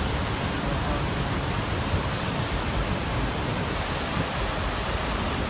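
Fast-flowing floodwater of an overflowing river, rushing in a steady, even wash of noise.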